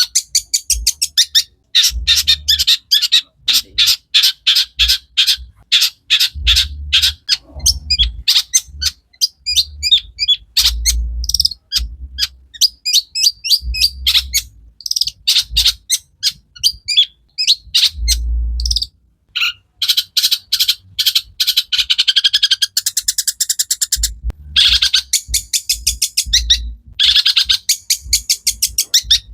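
Long-tailed shrike (cendet) singing a fast, chattering song packed with mimicked phrases: rapid runs of short, high notes broken by brief pauses. Soft low thuds come and go beneath the song.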